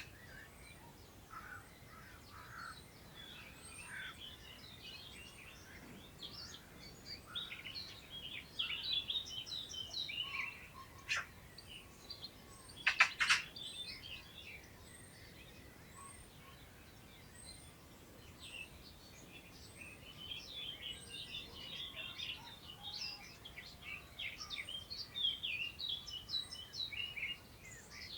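Several wild birds singing at once across open countryside, their chirping songs overlapping, with a thin high note repeated about once a second through the first two-thirds. A couple of sharper, louder calls stand out near the middle.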